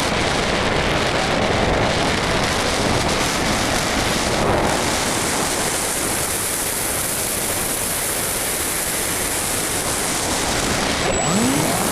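Wind rushing over an onboard camera on a radio-controlled model plane in flight, a steady loud hiss. Near the end the plane's motor starts up with a rising whine.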